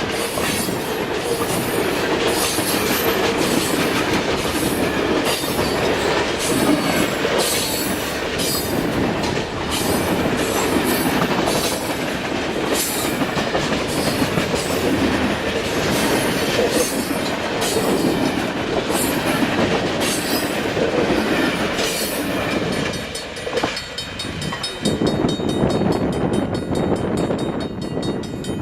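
Loaded freight cars of a long grain and sulfur train rolling past, their wheels clicking rhythmically over the rail joints with a steady rumble. About twenty-three seconds in, the rail noise drops away and gives way to wind on the microphone.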